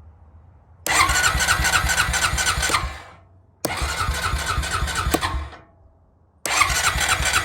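Honda Rancher ATV's electric starter cranking the engine in three tries of about two seconds each, with short pauses between them. Each try winds down without the engine catching: a no-start that the owner traces to a dirty carburetor.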